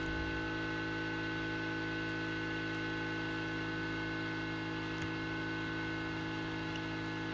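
Steady electrical hum, with one faint click about five seconds in.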